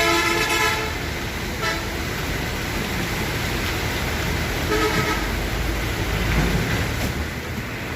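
Vehicle horns honking over a steady low engine and road rumble: a long blast at the start, a brief toot just under two seconds in, and another short blast about five seconds in.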